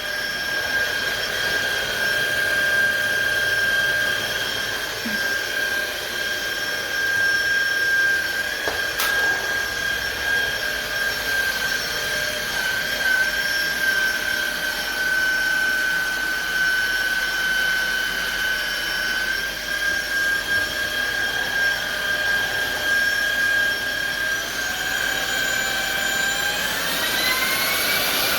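Cordless stick vacuum motor running with a steady high-pitched whine over a rush of air. Near the end the motor speeds up, and the whine rises in pitch in a couple of steps.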